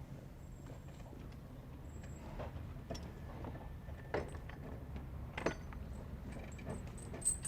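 Horse-drawn carriage rolling: a steady low rumble of wheels with scattered metallic clinks and jingles.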